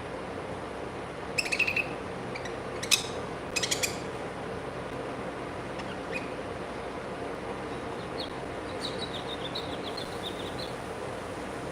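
Pet birds chirping: a few short, sharp chirps in the first four seconds, then a quick run of high twittering notes from about eight to ten and a half seconds in, over a steady background hum.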